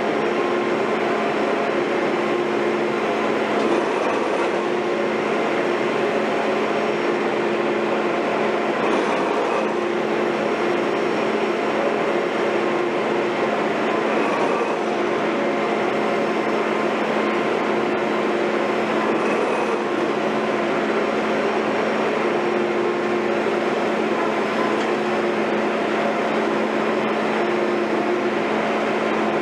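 Heavy construction machinery running steadily: a constant mechanical drone with a low hum and a higher tone that cuts in and out every few seconds.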